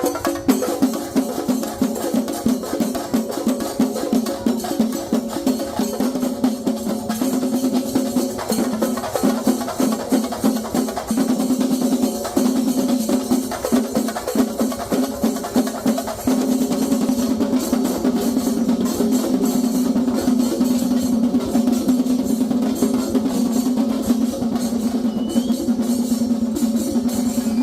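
Kerala festival drumming for a theyyam: a continuous, rapid roll of drum strokes with a steady pitched tone running under it, getting a little louder about two-thirds of the way through.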